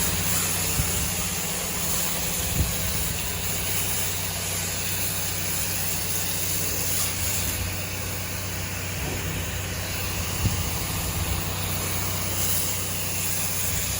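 Echo two-stroke leaf blower, fitted with extension tubes for gutter cleaning, running steadily at a constant speed.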